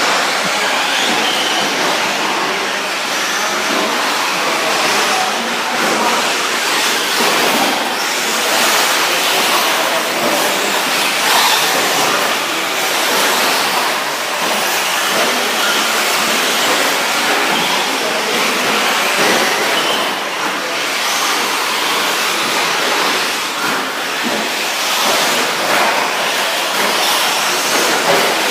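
Electric 1/10-scale 4WD short course RC trucks racing on an indoor dirt track: a steady, loud mix of motor and tyre noise, with occasional sharper clicks and knocks.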